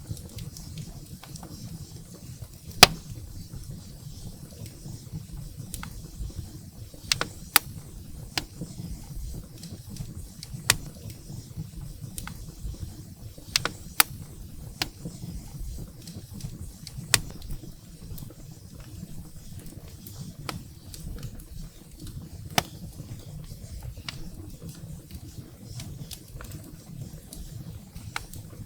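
Wood fire burning in a fireplace: a steady low rumble of flames with sharp crackles and pops at irregular intervals, the loudest about three seconds in.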